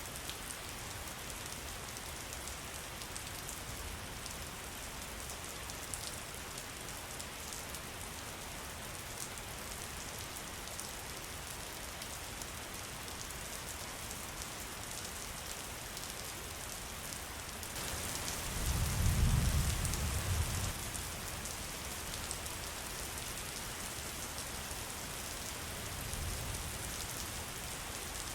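Steady rain falling as an even hiss, with a low rumble of thunder about two-thirds of the way in and a fainter rumble near the end.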